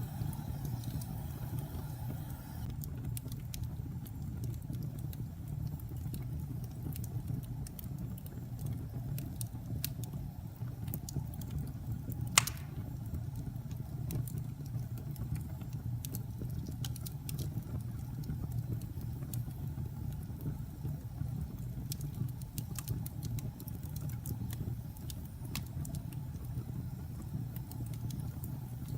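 Wood logs burning in a fireplace: a steady low rumble of flames with scattered sharp crackles, and one loud pop about twelve seconds in.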